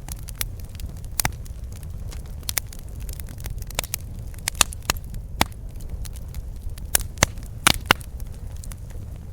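Campfire crackling: irregular sharp pops and snaps, with a quick run of louder pops late on, over a steady low rumble.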